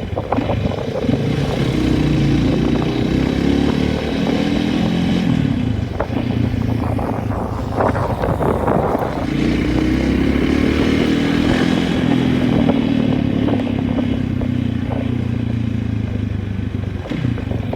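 An engine running steadily. Its pitch sags and then climbs again about nine seconds in, with a rougher, clattering stretch just before.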